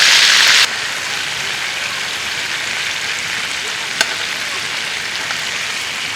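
Steak sizzling in a pan, a loud hiss that cuts abruptly to a quieter steady sizzle about two-thirds of a second in. There is a single sharp click around four seconds in.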